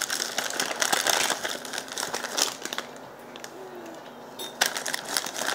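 Close-up chewing of crisp fried food: a dense run of crunches and mouth clicks that eases off about three seconds in and picks up again near the end.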